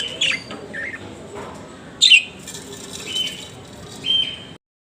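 Small pet parrots chirping. There are sharp high chirps at the start, a louder falling chirp about two seconds in, and a couple of short held whistle notes after it.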